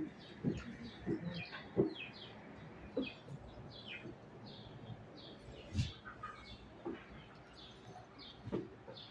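Small birds chirping over and over in short, falling chirps, about one or two a second. Now and then a dull low knock is heard, the loudest near the start and about six seconds in.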